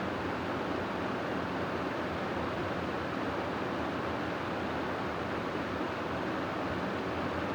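Steady wind sound for sleep: an even rushing noise that holds a constant level, without gusts or breaks.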